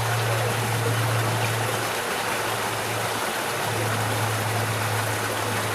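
Steady rush of flowing river water, with a low steady hum underneath that fades out for a second or two around the middle.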